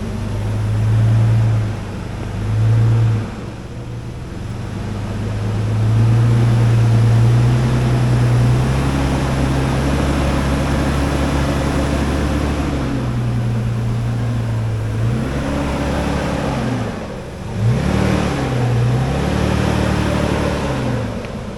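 A 4x4 truck's engine pulling off-road, its pitch rising and falling with the throttle, with several quick revs up and down near the end.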